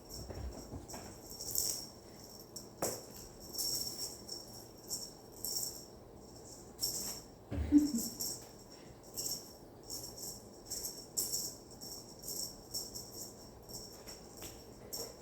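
Bell-ball cat toy jingling in short, irregular bursts as a cat bats it about, with one dull thump about eight seconds in.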